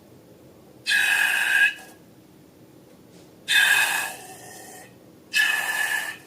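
Air let out of a balloon's neck in three short squealing bursts, each holding a steady high pitch over a breathy hiss: about a second in, midway, and near the end.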